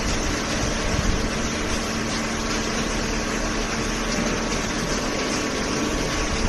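Hydraulic baler's pump unit running, a steady mechanical hiss with a constant low hum.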